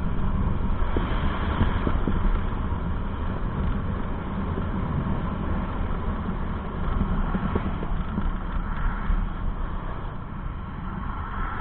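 A road vehicle on the move: steady engine and road noise with wind on the microphone.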